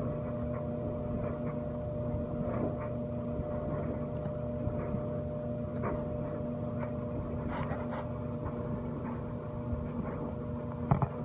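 A steady mechanical hum, like a motor running, with scattered short clicks and knocks and a sharper pair of knocks near the end.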